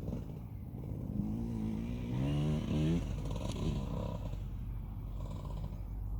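KTM 65 SX two-stroke motocross bike engine revving up through the rpm, rising in pitch, then chopping off the throttle about three seconds in, over a steady low rumble.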